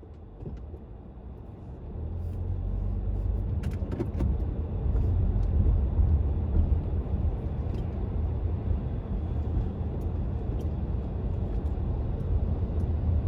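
Car being driven, heard from inside the cabin: a steady low rumble of engine and road noise that gets louder about two seconds in, with a few faint clicks.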